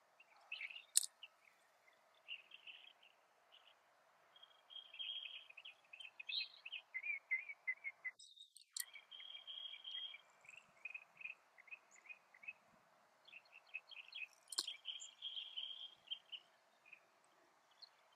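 Birds chirping and twittering in rapid runs of short, high notes, with a few sharp clicks, the loudest about a second in, over steady background noise.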